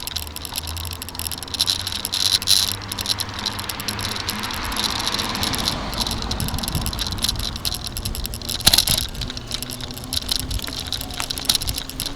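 Bicycle rattling and clicking as it rolls along the road, with traffic noise that swells as a car passes about halfway through.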